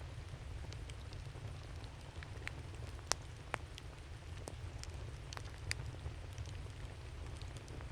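Wood fire crackling: irregular sharp pops and snaps, the loudest about three seconds in, over a steady low rumble.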